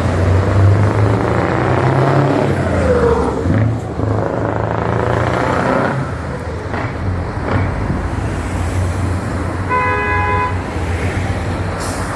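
Scania 144L truck's V8 diesel engine running, with a short horn blast about ten seconds in.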